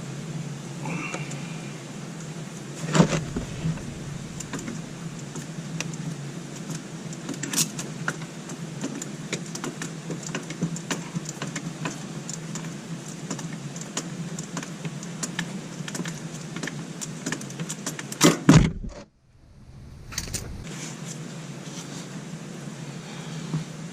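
Scattered metallic clinks and knocks of hand tools and parts being handled during scooter maintenance, over a steady low hum, with a few louder knocks.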